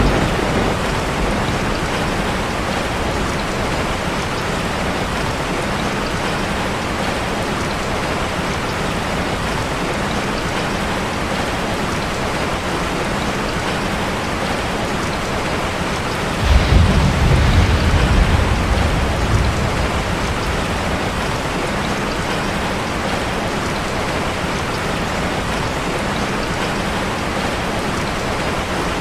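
Steady heavy rain falling on a metal roof, with a low rumble of thunder a little past halfway through that fades over a few seconds.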